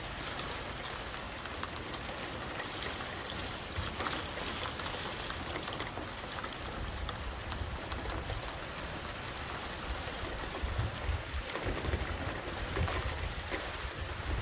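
Steady rain falling, pattering drops on a surface, with a low rumble rising and falling in the last few seconds.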